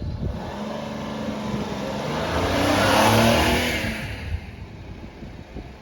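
A motor vehicle's engine swelling in loudness to a peak about three seconds in, then fading away.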